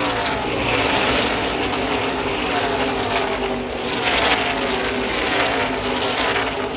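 NASCAR Truck Series race trucks' V8 engines at full speed going past in a pack, one after another, each engine note falling in pitch as it passes.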